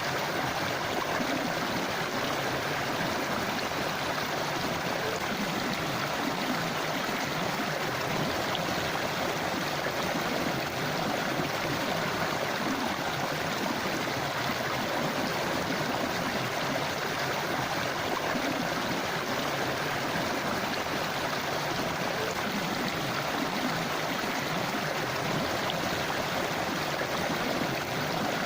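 River water flowing over rocks in a steady rushing babble, without a break.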